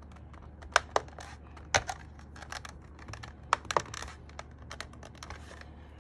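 Keys on a Sky87 mechanical keyboard pressed and released three times, each stroke a pair of sharp clacks about a quarter second apart. This demonstrates the flat 'bẹp bẹp' sound the board makes.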